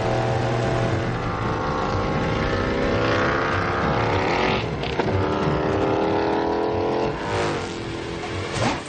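Indian motorcycle engine at full throttle on a top-speed run. Its pitch climbs steadily, drops sharply at each upshift (about halfway and again near the end), then climbs again.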